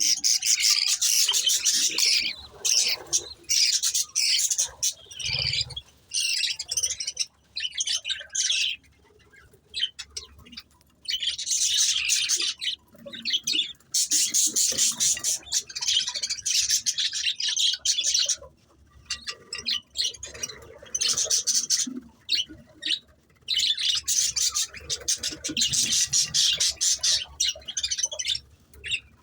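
Budgies chirping and squawking in high, raspy bouts lasting from about a second to a few seconds, with short pauses between them.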